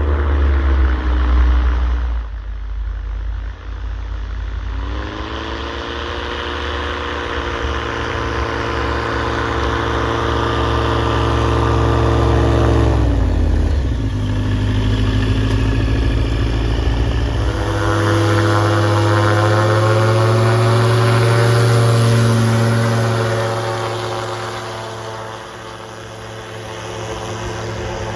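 A floatplane's piston engine and propeller running loud, throttled up and down several times: the pitch drops early, holds, dips sharply about halfway, climbs again and eases off near the end.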